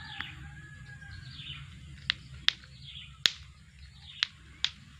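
Small birds chirping faintly, with a handful of sharp, short clicks at irregular intervals from about two seconds in.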